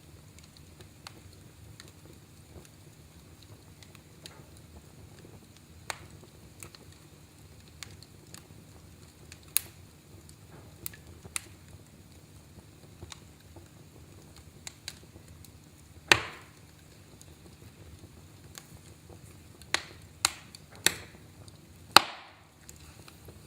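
Wood fire in a fireplace crackling: a steady low rumble of flames under scattered small snaps, with a few louder pops in the second half, the loudest near the end.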